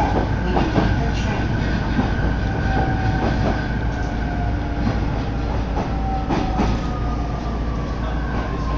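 A train running along the track, heard from inside the carriage: a steady rumble with irregular clacks of the wheels over the rails, and a faint whine that slowly falls in pitch.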